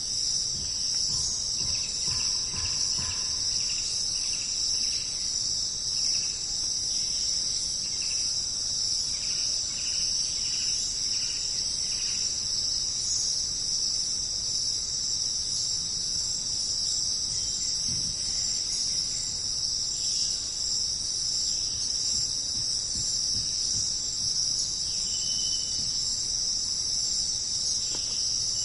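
Dense, steady high-pitched insect chorus of a jungle night ambience. In the first dozen seconds a run of short repeated call notes, about two a second, sounds under it, with one more brief call near the end.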